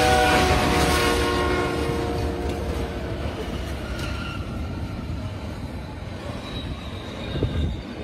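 Freight train passing close by at speed. Its horn sounds and fades over the first couple of seconds, leaving the rumble and clatter of the passing cars, which slowly get quieter, with a thump near the end.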